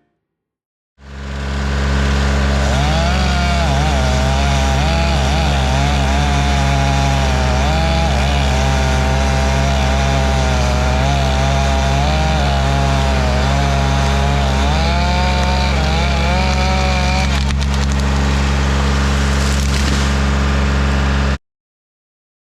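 Chainsaw running at high speed, starting about a second in and cutting off abruptly near the end.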